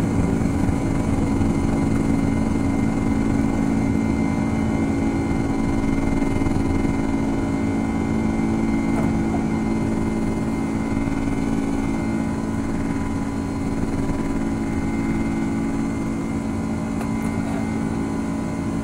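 Boeing 767-300ER cabin noise: the jet engines and airflow make a steady drone with a low, even hum, heard from inside the cabin.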